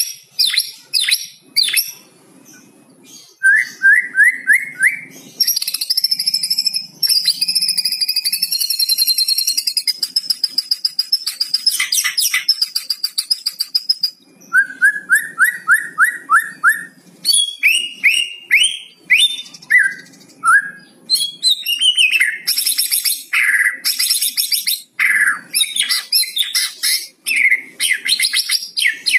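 White-rumped shama (murai batu) singing a varied song full of 'kretekan' rattles. Quick runs of short rising whistled notes alternate with a long, dense rattling trill through the middle, then sharp high calls and further runs of rising notes.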